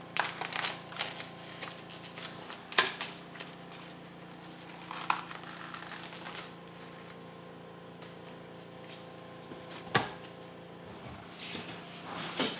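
Light crinkling and scattered clicks of a plastic-wrapped ground beef package being handled and opened, with a few sharper knocks, over a steady low hum.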